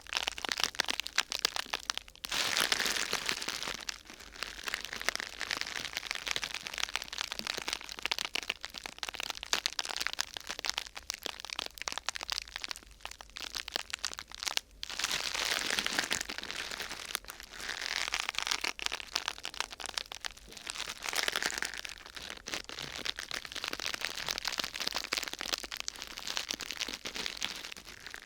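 A thin sheet material being crumpled and crinkled by hand, a dense crackling that swells and eases in waves, with a couple of brief pauses.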